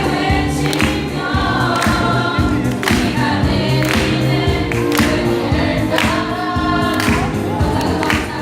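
A pop ballad sung by a group of voices over band accompaniment, with a drum hit about once a second.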